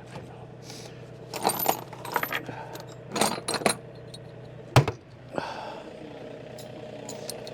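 Steel chain and shackle clinking and rattling as they are handled, in a few short bursts, with one sharp metal knock a little past halfway. An engine idles steadily underneath.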